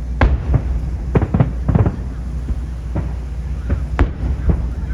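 Aerial fireworks shells bursting in quick irregular succession, a string of sharp bangs over a continuous low rumble, with one especially sharp crack about four seconds in.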